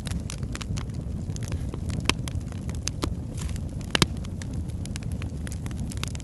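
Wood fire of burning logs crackling: many small sharp snaps over a steady low rumble, with a louder pop about two seconds in and the loudest about four seconds in.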